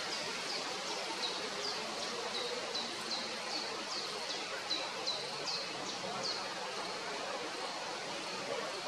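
Male great tit singing: a quick run of short, high, downward-sliding notes, about two to three a second, that stops about six seconds in, over a steady background hiss.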